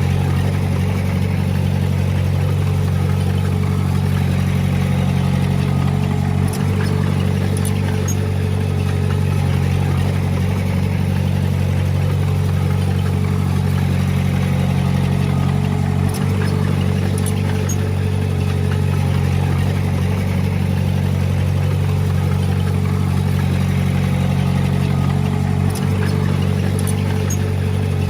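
Diesel engine of heavy earthmoving machinery running steadily, with a brief dip in level about every ten seconds.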